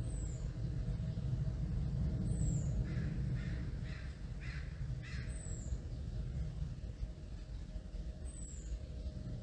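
A low, steady rumble of an aircraft passing overhead. Around the middle a crow caws about five times in quick succession, and a small bird repeats a high, thin, falling note every two to three seconds.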